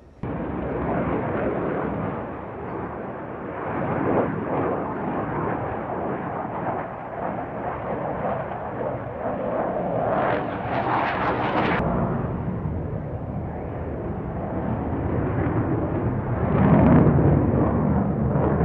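Aircraft engine noise from a flying display, a loud, dense and steady sound that swells and brightens about ten seconds in and again near the end.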